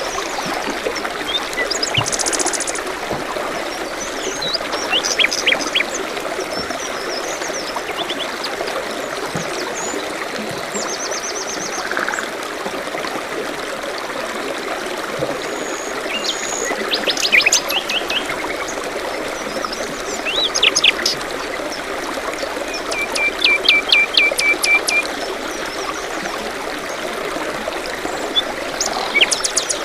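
A small forest stream trickling steadily, with songbirds chirping and calling on and off over it, including a fast run of repeated notes about three-quarters of the way through.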